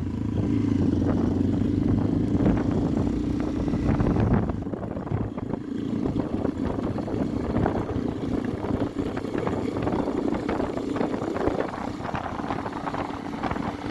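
Motorcycle engine running while riding at a steady pace. The engine note is steady for the first four seconds or so, then turns rougher and a little quieter.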